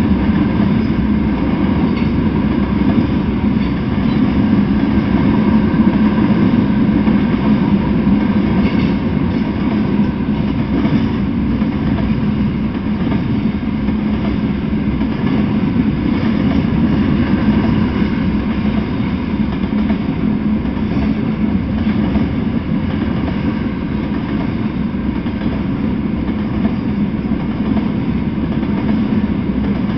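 A freight train of tank cars rolling past close by, with a steady, continuous noise of steel wheels on rail.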